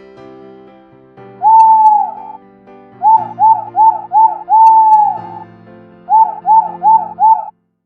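A bird call, played over steady background music: one long clear note about a second and a half in, then four short quick notes, another long note, and a run of five short notes near the end.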